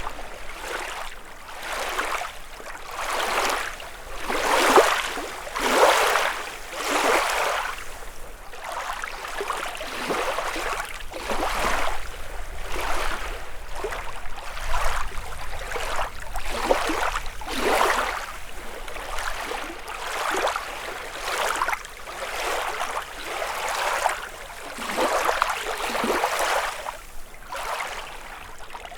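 Small lake waves lapping and splashing on the shore, one after another roughly every second, each swelling and falling away.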